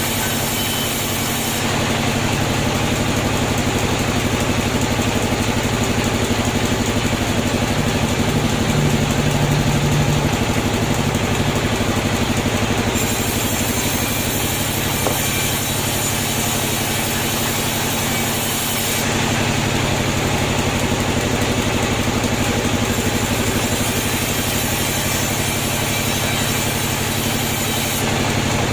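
Sawmill machinery running steadily, a continuous motor or engine hum with several abrupt shifts in the higher noise.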